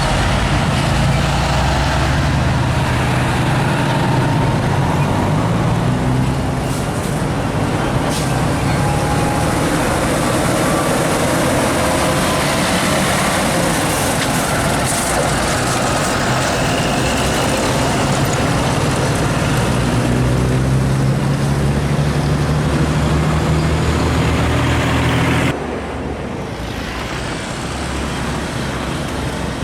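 Heavy diesel trucks driving past amid steady road traffic noise, their engine notes rising and falling. Near the end the sound drops suddenly to a quieter traffic hum.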